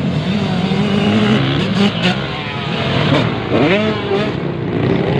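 Several motocross motorcycle engines racing at once, their pitch rising and falling as the riders rev and shift.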